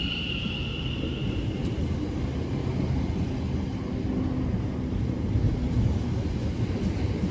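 A train rumbling steadily at the station, with a high whine fading away in the first second and a half.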